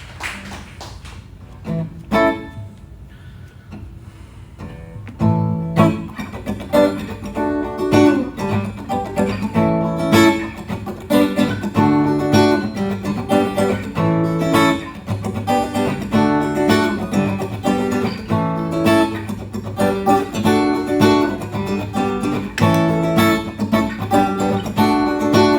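Guitar played live: a few scattered notes, then from about five seconds in a steady strummed chord pattern starts up, the opening of the next song.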